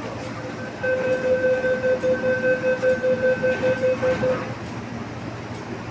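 Door-closing warning beeps of an MTR East Rail line R-train: a pulsing high tone, about four beeps a second, lasting about three and a half seconds, over the steady low hum of the train.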